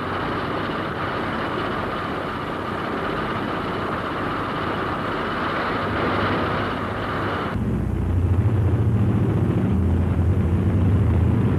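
Aircraft engines droning steadily. About two-thirds of the way through, the sound cuts abruptly to a deeper, pulsing rumble.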